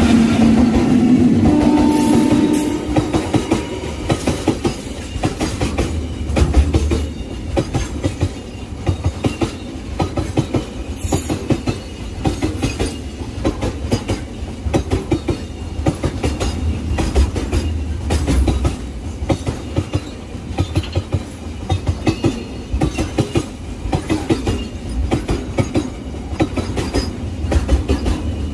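Freight train wagons rolling past, their wheels clattering rhythmically over the rail joints in a steady clickety-clack. A steady tone sounds over the first couple of seconds and then fades.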